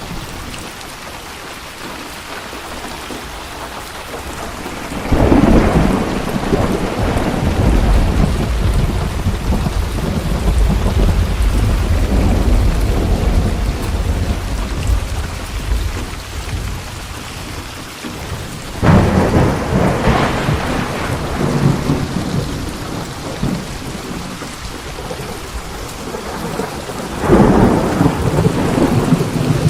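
Steady heavy rain with rolling thunder. Three thunderclaps break in suddenly, about five seconds in, near the middle and near the end. The first trails off in a long, deep rumble.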